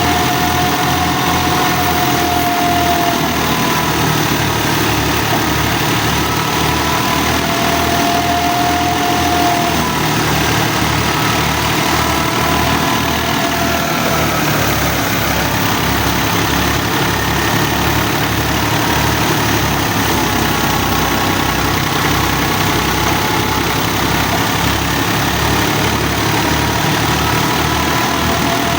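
Fiat 480 tractor's three-cylinder diesel engine running steadily with an even low pulse, as it drives a thresher. A faint whine wavers slowly in pitch above it.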